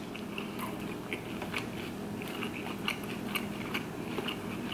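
Close-miked chewing of a McDonald's chicken nugget: soft, irregular wet clicks and smacks of a mouth chewing, a few per second, over a faint steady hum.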